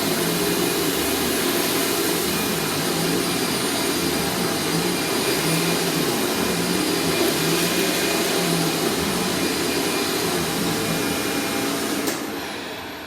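Dirt Devil Ultravision Turbo upright vacuum cleaner running steadily at full power. It is switched off about a second before the end, and the motor winds down with a falling whine.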